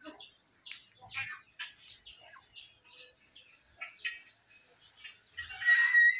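Birds chirping in many short, high calls. Near the end comes a louder, steady shrill tone lasting about a second.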